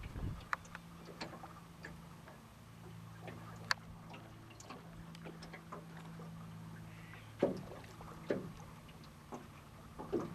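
A small boat's motor humming steadily and low, with scattered light ticks and two louder knocks about seven and a half and eight and a half seconds in.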